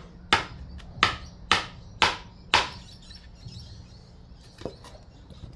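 Ball-peen hammer driving a nail into wood: five sharp blows about two a second, followed by one lighter tap near the end.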